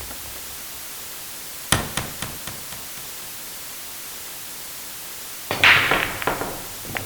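Table tennis ball dropped and bouncing to rest, the small clicks coming faster and fading. About five seconds in, billiard balls clack together in a loud cluster, followed by a few scattered knocks.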